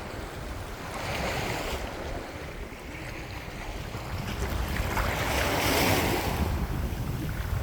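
Small waves washing in shallow water, swelling twice, with wind rumbling on the microphone throughout.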